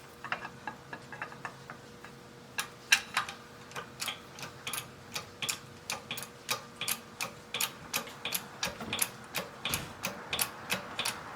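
A steady run of sharp metallic clicks, about three a second, from a hand-worked forming tool as metal stock is forced into a form block between guide pins. The stock is unoiled and binding on the pins.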